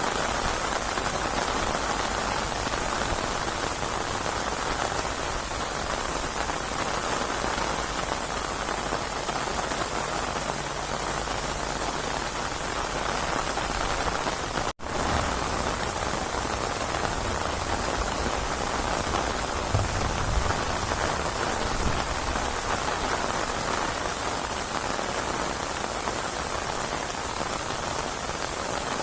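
Steady, dense rain falling on surfaces. The sound drops out for an instant about halfway through.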